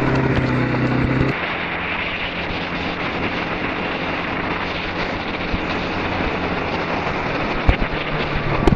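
Four-wheeler (ATV) engine running while riding, its steady hum dropping about a second in as the throttle eases off, with wind buffeting the microphone. A couple of sharp knocks come near the end.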